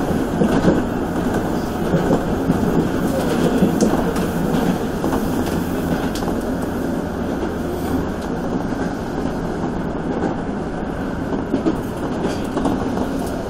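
Toei 5300 series electric train running at speed, heard from inside the front car: a steady rumble of wheels on the rails with a few light clicks from the track.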